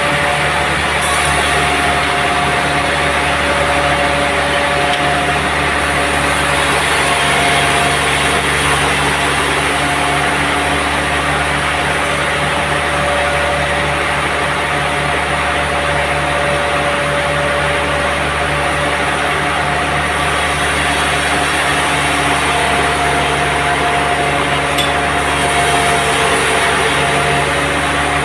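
Sawmill running steadily: a motor-driven saw making a continuous machine hum with dense noise, without pause.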